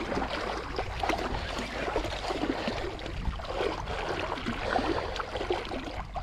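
River water lapping and splashing against a fishing kayak, with a steady low rumble and scattered small splashes.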